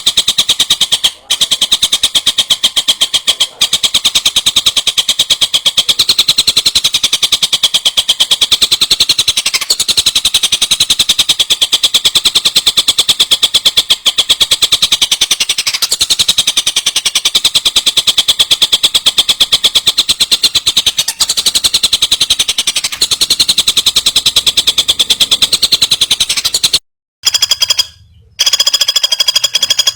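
A songbird's very rapid, unbroken chattering trill of high notes, cutting off about 27 seconds in and giving way to a different, steadier high-pitched call.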